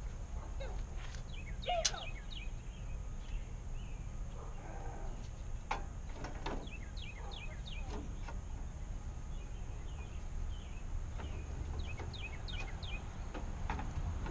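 Small birds chirping in short series of quick falling notes over a steady low outdoor rumble, with a few sharp knocks.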